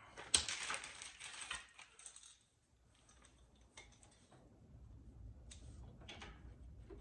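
Metal hand tools clattering and clinking: a sharp clack, then about two seconds of rattling, then a few separate clicks near the middle and end.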